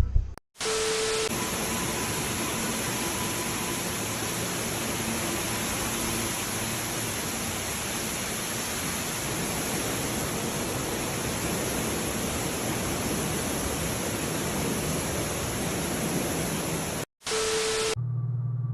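A steady, even hiss like static that starts abruptly after a brief gap and cuts off suddenly near the end. A short low tone sounds at its start and again just before it stops, and then a low, steady engine hum begins.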